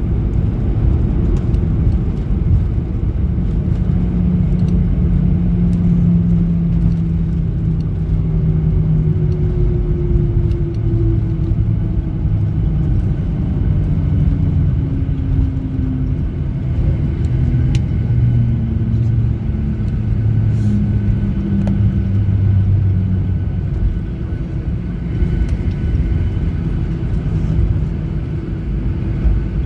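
Cabin noise of a Boeing 737-800 during its landing: a heavy, steady low rumble with engine tones falling slowly in pitch as the CFM56 engines wind down.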